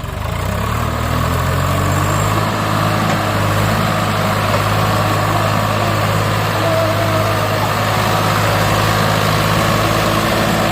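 Swaraj 744 FE tractor's three-cylinder diesel engine revving up in the first second, then running steady and loud.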